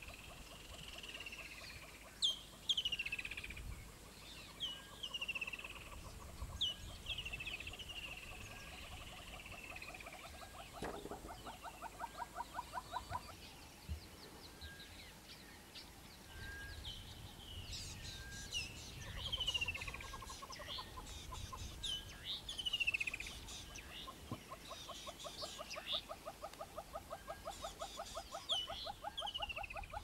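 Birds calling: many short, falling whistled notes, with rapid series of clucking notes twice, about ten seconds in and again in the last few seconds.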